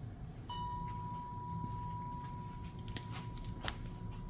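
A steady high-pitched tone starts suddenly about half a second in and holds without fading, with a few light clicks and knocks from handling.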